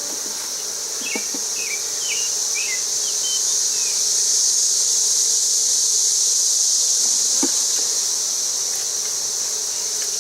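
A steady, high-pitched insect chorus, with the lower hum of a honey bee colony beneath it. A few short bird chirps come in the first few seconds, and there is a single soft knock about seven seconds in.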